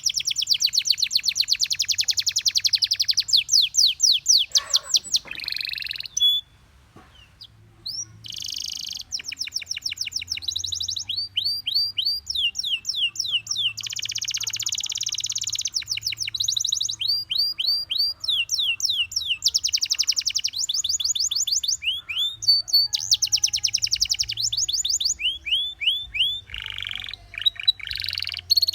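Canary song: phrases of fast repeated trills and quick rising and falling notes, with a pause of about two seconds early on before the singing resumes.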